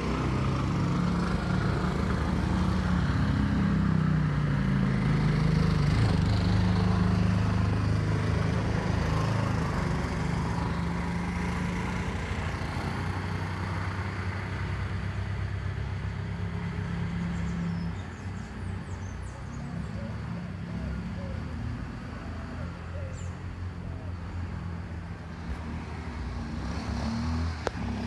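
A motor vehicle's engine running close by, its pitch wavering in the first few seconds, then dropping away and quieter about two-thirds of the way through, over steady street noise.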